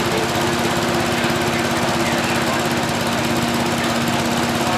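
Engine running steadily at a constant speed, with a steady droning hum and a rapid, even pulse.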